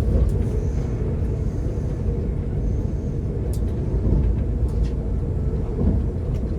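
Steady low rumble of a passenger train running along the track, heard from inside the carriage, with a few faint ticks and rattles.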